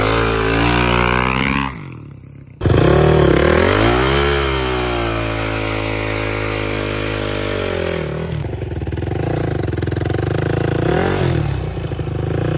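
Dirt bike engine revved hard during an attempted burnout, the clutch being slipped while the rear wheel won't spin. It drops off briefly about two seconds in, revs up again and holds high, then falls back toward idle around eight seconds in, with one short blip near the end.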